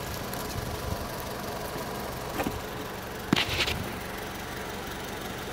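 2005 Honda Civic LX's four-cylinder engine idling steadily, with a short knock about three and a half seconds in.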